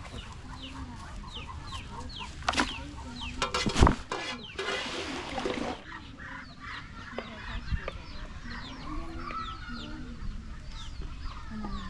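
Chickens clucking, with many short high chirps throughout. A sharp knock comes about four seconds in, followed by about a second of hissing noise.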